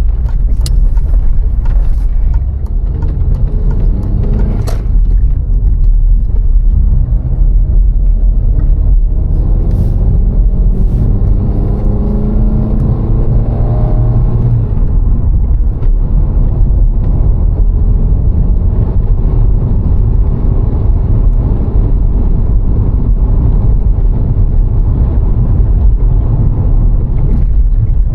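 VW Golf IV 1.6's four-cylinder petrol engine and road rumble while driving. The engine note climbs steadily for about ten seconds as the car accelerates, then falls away about halfway through, with a few light knocks along the way.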